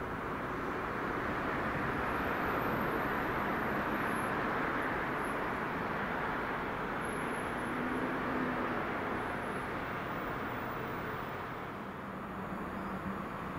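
A passing train: a steady rolling rush that swells over the first few seconds and eases off again near the end.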